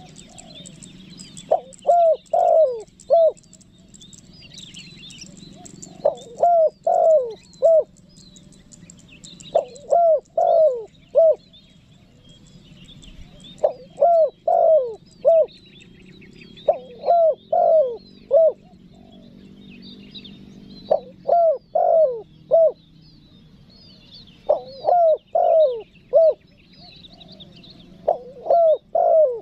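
Spotted dove (tekukur) cooing: a phrase of about four coos, repeated every three to four seconds, eight times. Small birds chirp faintly in the background.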